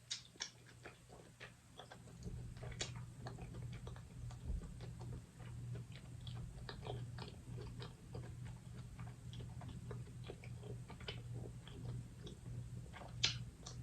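Close-up eating sounds from someone eating a seafood boil: irregular small clicks and smacks of chewing and handling the food, with a steady low hum coming in about two seconds in.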